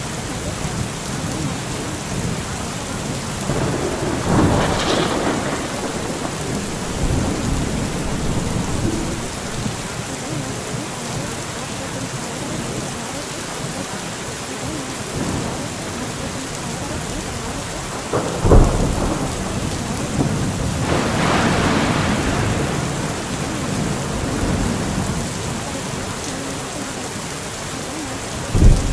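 Steady rain with thunder: a rolling rumble about four seconds in, a sharp loud crack a little past halfway followed by another long rumble, and a second sharp crack near the end.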